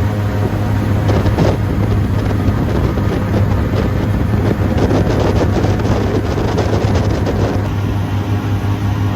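Airboat engine and propeller running steadily under way, a constant low drone. Wind buffets the microphone from about a second in until near the end.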